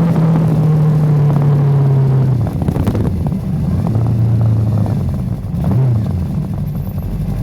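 Motorcycle engine running under way at a steady pitch, dropping lower about two and a half seconds in. Near the end it briefly rises and falls again.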